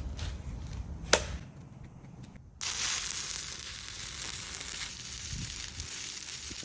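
Stick welding arc on a 3/32-inch 7018 rod at 85 amps, struck about two and a half seconds in and then running with a steady crackling sizzle. A sharp click comes about a second in.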